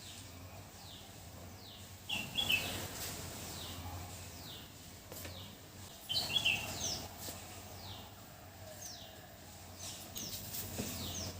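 Small birds chirping: a short falling chirp repeats about once or twice a second, with louder bursts of chirping about two seconds in and again about six seconds in, over a low steady hum.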